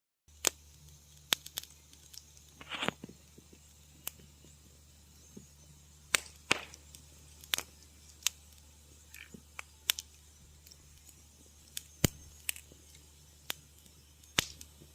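Wood fire crackling in a fireplace: sharp, irregular pops and snaps, about a dozen, over a faint steady low hum, with a slightly longer crackle about three seconds in.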